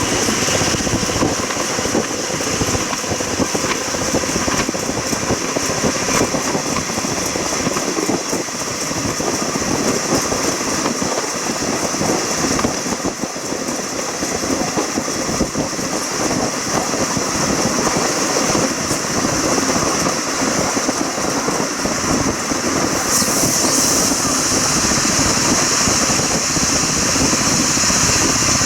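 Train in motion: steady rolling noise from the moving train that grows brighter and louder near the end.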